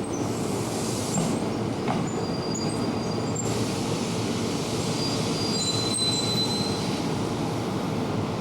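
Electric commuter train running along a station platform, a steady rolling rumble with thin, high wheel squeals that come and go, strongest in the middle.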